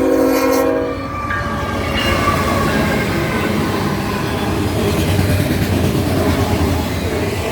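Freight locomotive's horn chord sounding and cutting off about a second in, followed by a falling tone as the locomotive goes by. After that an intermodal freight train rolls past with continuous wheel-on-rail rumble and clatter.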